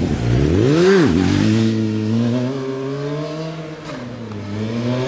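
Motorcycle engine revving: the pitch climbs and falls about a second in, holds steady, dips just before four seconds, then climbs again near the end.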